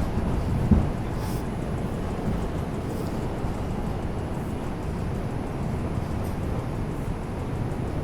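Steady low rumble and hum inside an R142 subway car standing at a station, with one short thump a little under a second in.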